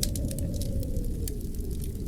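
Fireplace fire burning: a steady low rumble of flames with frequent small crackles and pops, several a second.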